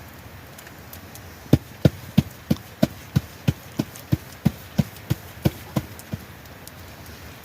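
A run of about fifteen evenly spaced knocks, about three a second, starting about a second and a half in and stopping about a second and a half before the end.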